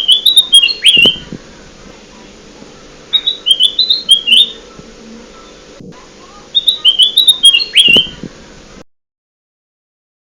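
Looped lure recording of the kutilang emas song: a short phrase of quick, high chirping notes, repeated three times about three seconds apart. The recording cuts off to dead silence near the end.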